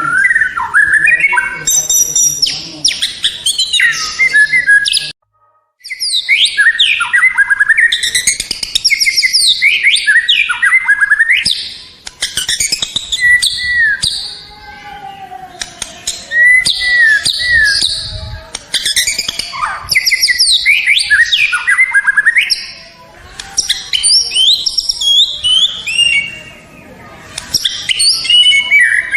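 White-rumped shama (murai batu) singing a loud, varied song of whistles, quick trills and chattering phrases, nearly without pause. There is a sudden break to silence for about half a second around five seconds in.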